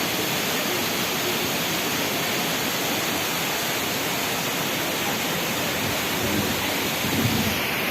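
Steady rush of water falling over a small waterfall or cascade at a spring.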